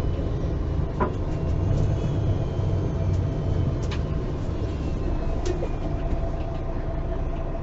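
Inside a MAN Lion's City G articulated city bus: a steady low engine and road drone with a faint steady whine, and a few short rattles or clicks from the interior.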